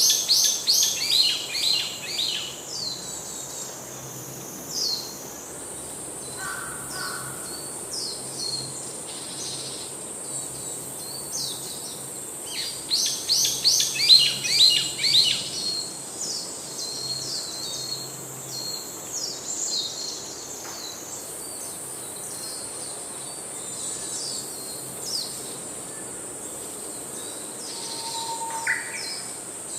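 Wild birds singing, with rapid series of high chirps that come loudest in two bursts, at the start and about halfway through, and scattered calls in between. A steady high insect buzz runs underneath.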